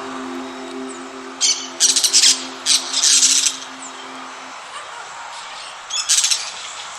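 Parrot squawking in harsh screeches, several short calls in the first half and one more near the end. A steady low hum underneath stops about halfway through.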